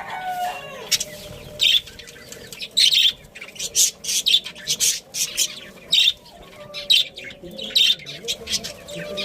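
Small birds chirping in short, sharp high-pitched calls, one or two a second, over fainter lower bird calls.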